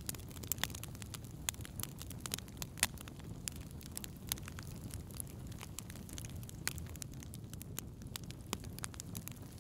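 Fire crackling in a fireplace: irregular sharp pops and snaps, a few a second, over a steady low rumble of the flames.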